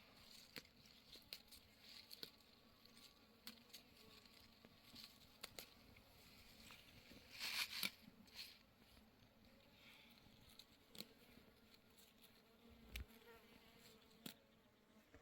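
Faint scattered clicks and light crackles, with one short, louder rustle about seven and a half seconds in.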